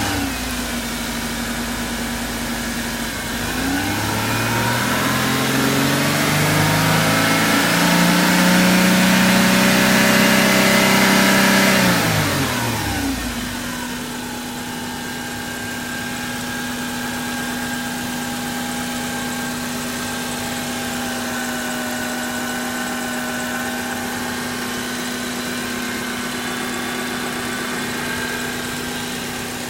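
Subaru Forester 2.5-litre DOHC flat-four engine idling just after starting. A few seconds in it is revved up and held at higher speed for several seconds, then drops back to a steady idle for the rest.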